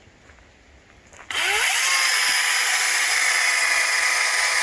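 ECHO DCS-2500T 56-volt battery chainsaw triggered about a second in: its electric motor and chain spin up with a quick rising whine, then run free at a steady high pitch, without cutting, to check that the chain oiler sprays.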